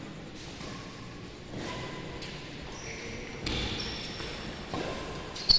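Badminton play: a string of sharp racket-on-shuttlecock hits and short rubber-soled shoe squeaks on the court floor, with the loudest hit near the end.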